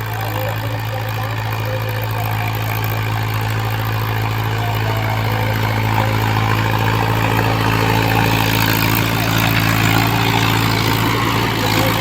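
Mahindra tractor's diesel engine running steadily at a constant speed.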